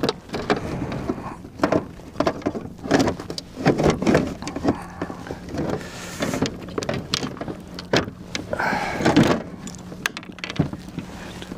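Irregular knocks, bumps and clatter of a large chain pickerel being handled and laid out for measuring on a fishing kayak. A faint steady low hum comes in a few seconds in.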